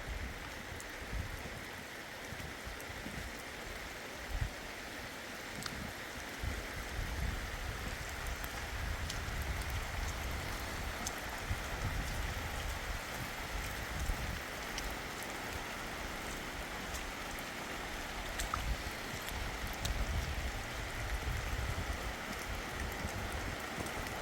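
Rain falling steadily: a continuous hiss with many scattered drop ticks.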